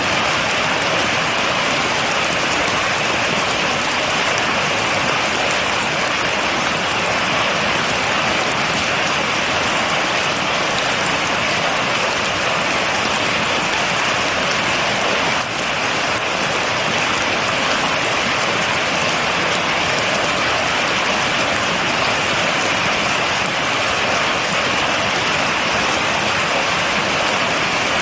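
Steady rain: an even hiss with many fine drop ticks over it.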